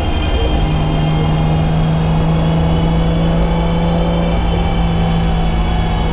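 BMW E30's M20B25 inline-six engine running hard at a steady pitch, with a brief dip in the note about half a second in before it settles again.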